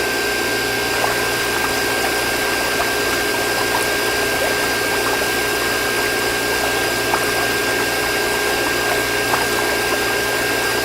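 Small DC motor water pump running steadily with a constant high whine over a hiss of moving water.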